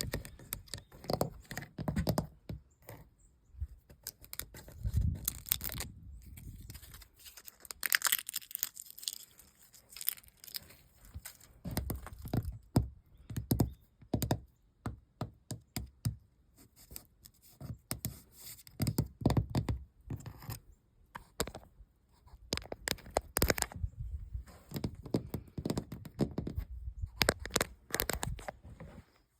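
Close-miked tapping, scratching and peeling of flaking old paint on a building, heard as irregular sharp clicks and crackles with occasional dull thumps.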